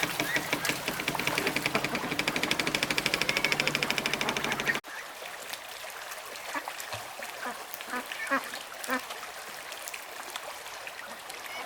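Ducks quacking. For the first five seconds a loud, fast, even run of about ten pulses a second dominates; it stops abruptly, leaving scattered quieter quacks.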